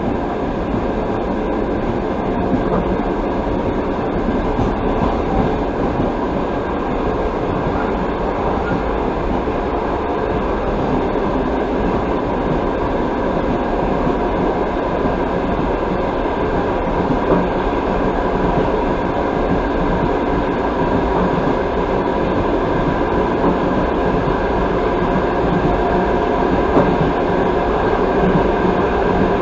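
Passenger train running at speed, heard from inside the carriage: a steady rumble and hiss of wheels on rails.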